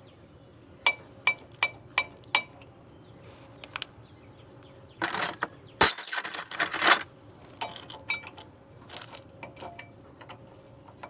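Metal tools striking and scraping on stuck brake pads and the caliper bracket as the pads are worked loose: five quick ringing metallic taps, then a louder scraping clatter about five to seven seconds in, and a few lighter clinks after.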